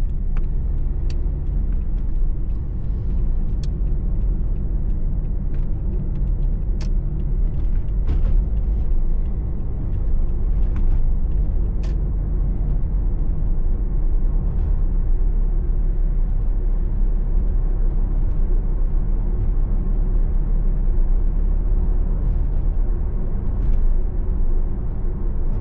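Steady low rumble of a car's engine and tyres on the road, heard from inside the cabin while driving, with a few faint clicks in the first half.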